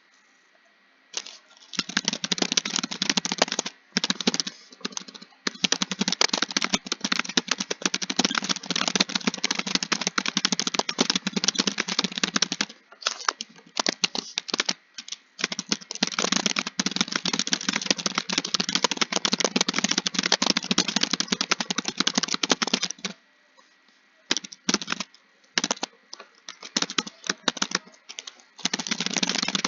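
Fast, continuous typing on a computer keyboard: dense rapid key clicks in long runs, broken by brief pauses. The longest pause comes about three-quarters of the way through.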